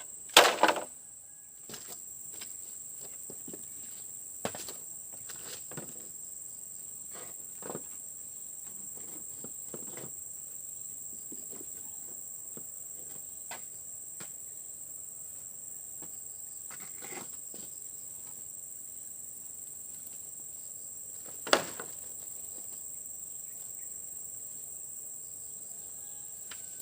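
Steady, high-pitched insect chorus of crickets. Scattered knocks and thumps cut across it: a loud cluster right at the start and a sharp knock about 21 seconds in.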